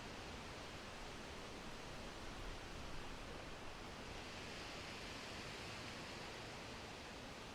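Wind blowing through forest trees, a steady, faint rustle of leaves that swells slightly about halfway through.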